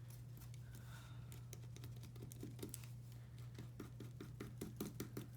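Scissors snipping through collaged paper to trim a cut-out shape: a run of faint, quick clicks a few per second, over a steady low hum.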